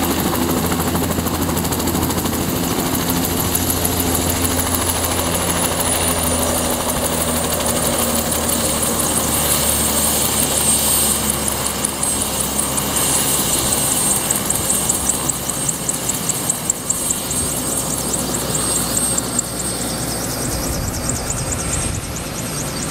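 Bell 206 JetRanger helicopter running close by: a high turbine whine over the beat of the rotor. The whine slides down in pitch over the first several seconds, then holds steady, and the overall level drops a little near the end.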